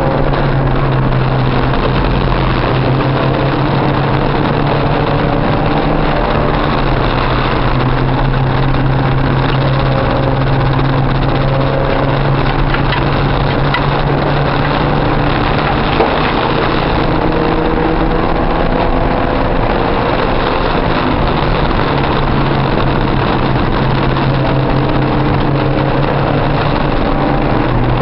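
Porsche 944's four-cylinder engine running hard under racing load, heard from inside the cockpit, its pitch rising and falling with the throttle and gear changes.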